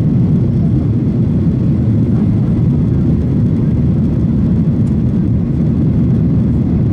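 Boeing 737-900ER cabin noise heard from a seat inside the economy cabin: a steady, even low rumble of the engines and airflow, with no change in pitch or level.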